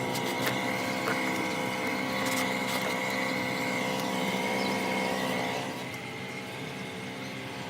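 A machine running steadily with a high whine over a lower hum, dropping in level about six seconds in.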